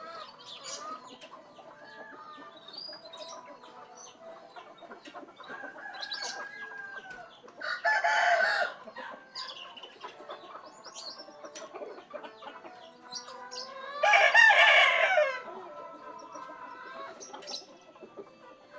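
Roosters crowing twice, once about eight seconds in and again, longer, about fourteen seconds in, with hens clucking and small birds chirping throughout.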